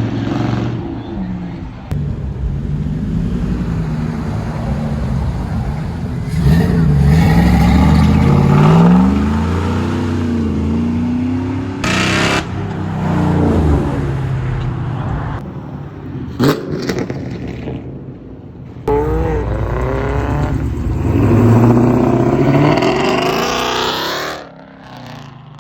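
Car engines revving and driving past, their pitch climbing and falling in several sweeps, loudest about a third of the way in and again near the end.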